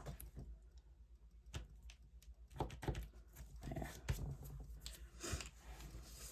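Faint, irregular taps and rustles of paper and small craft tools being handled.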